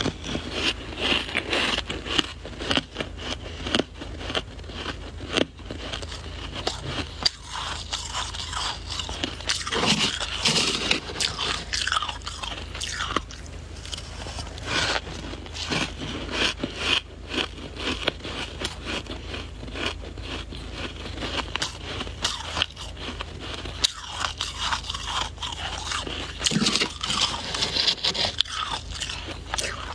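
Close-miked biting and chewing of soft white ice, freezer frost or shaved ice, making continuous irregular crunching.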